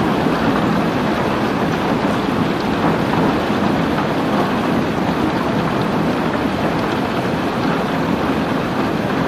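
Steady rainfall: an even, unbroken wash of rain noise with no single drops, claps or changes standing out.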